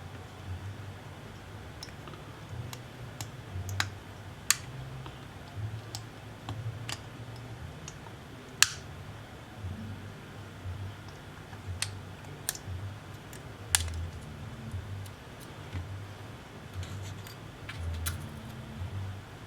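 Irregular small sharp clicks and taps of hand tools and small parts being handled during a tablet repair, over a low uneven hum.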